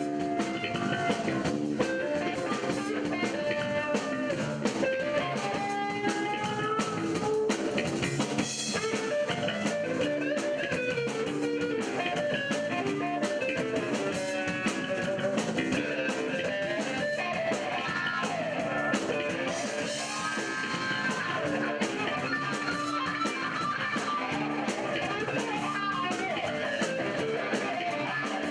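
Rock band playing: guitar over a steady drum beat.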